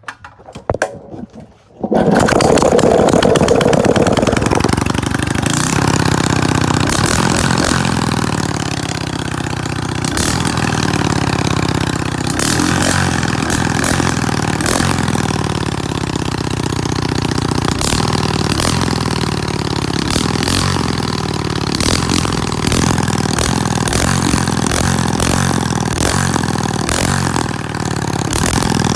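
An engine with its exhaust removed starting up: a few sharp clicks, then it fires about two seconds in and keeps running very loudly, with uneven popping from the open exhaust port.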